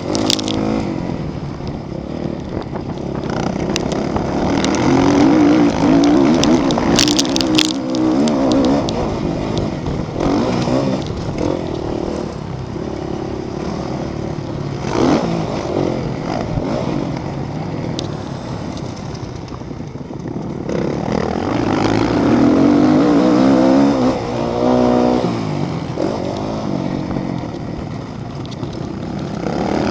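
Motocross bikes racing, their engines revving up and down between gear changes. The sound swells loudest twice, about five seconds in and again a little past twenty seconds, as bikes pass close.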